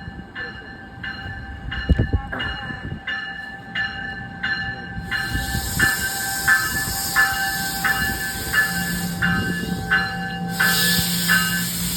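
A train at trackside with a bell ringing steadily, about one and a half strikes a second. About five seconds in, a loud hiss from the train joins it, and a low steady tone comes in near the end.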